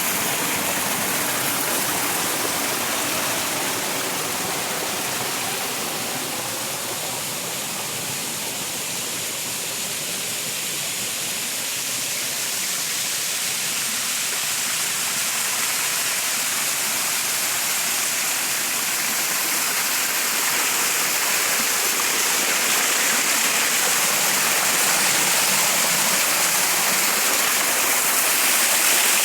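Steady rush of flowing water, easing slightly and building again toward the end.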